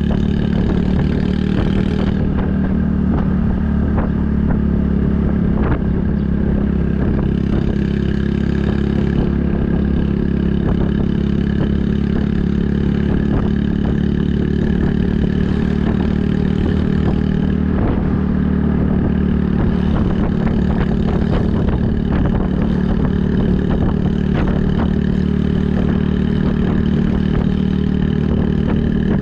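Honda Super Cub 110's single-cylinder four-stroke engine running through an aftermarket Kitaco mini Cabton muffler, heard from the bike while riding at a steady pace, with small rises and falls in engine speed.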